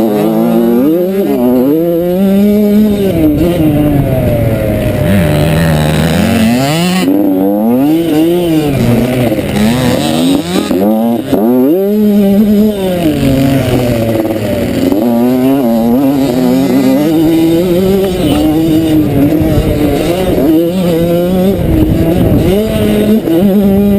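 Motocross bike engine running hard, its pitch climbing and dropping again and again as the rider opens the throttle, shifts and backs off.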